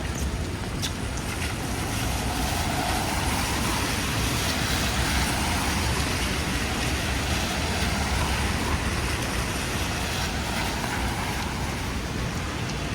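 Traffic on a rain-soaked city street. A vehicle passes on the wet road, its sound building and fading over several seconds, over a steady hiss of rain and road noise.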